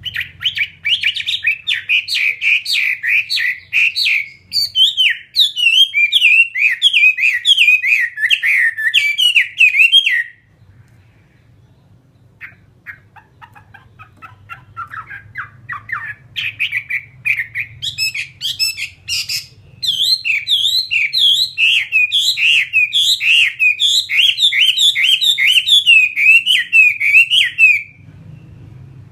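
A Chinese hwamei singing a loud, rapid song of repeated rising and falling whistled notes. The song breaks off about ten seconds in and gives way to softer scattered notes, then comes back at full strength until shortly before the end.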